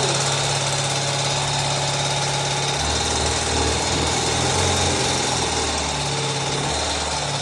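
Motorcycle engine idling just after a push-button start, running steadily with its low pitch shifting slightly a few times.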